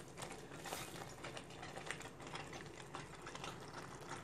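Faint, irregular crackling of masala gravy frying in a kadhai as a heap of chopped fresh fenugreek leaves is tipped in.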